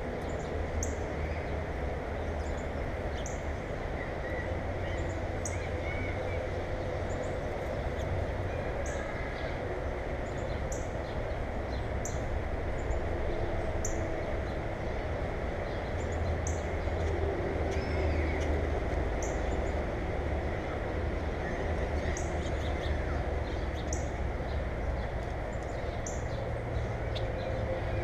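Birds chirping: short, high notes about once a second over a steady low rumble.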